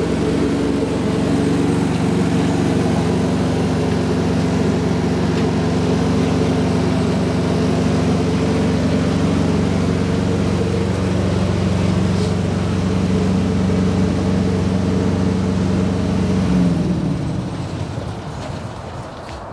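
Cummins ISX diesel engine of a 2010 Peterbilt 386 big rig idling steadily, then dropping away near the end.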